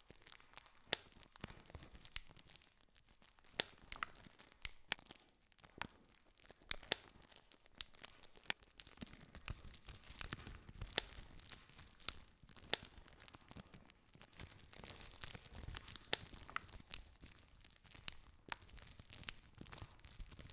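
Campfire crackling: burning wood snaps and pops in frequent, irregular sharp clicks over a soft steady hiss.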